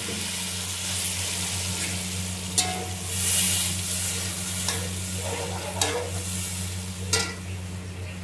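Onions and a blended green chili and tomato paste sizzling in hot oil in a metal pot while a metal spatula stirs them; the sizzle swells about three seconds in, and the spatula clinks sharply against the pot three times.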